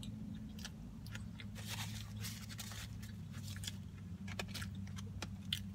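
A person chewing a mouthful of burger, with wet mouth clicks and soft crunching, over a steady low hum.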